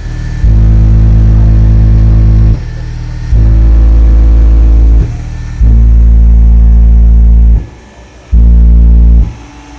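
Eight 8-inch Sundown Audio subwoofers in a slot-ported box, powered by about 8,000 watts, are being burped for an SPL meter: a very loud, steady low bass tone. It plays four times in a row, each burp lasting one to two seconds with short breaks between.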